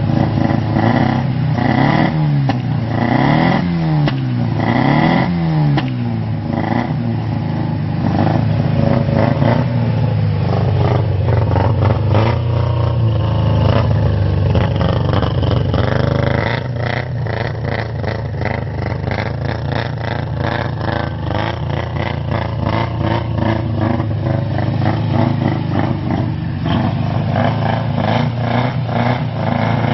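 Mazda RX-7's rotary engine, a Series 4 13B six-port, revved up and down about three times in the first few seconds, then running at a steadier speed. The crew takes its popping and banging for ignition timing that is off.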